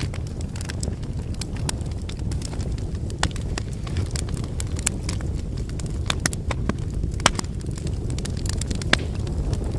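Wood fire burning: a steady low rumble of flames with frequent irregular crackles and sharp pops from the burning firewood.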